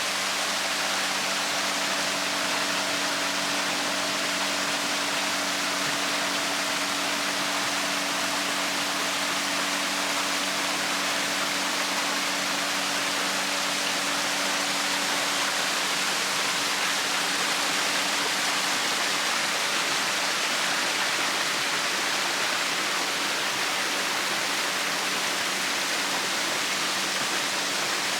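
Waterfall: a steady, unbroken rush of falling water, with a faint low hum beneath it.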